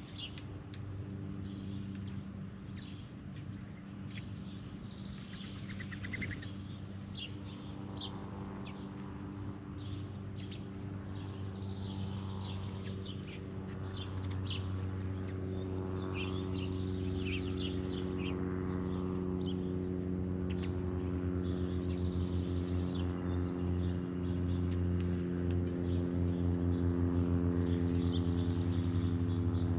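An engine hum that grows gradually louder and pulses toward the end, with birds chirping over it.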